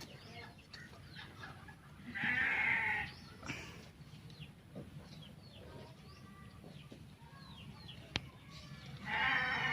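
Farmyard animal calls: two loud calls, each about a second long, one about two seconds in and one near the end, over faint scattered chirping.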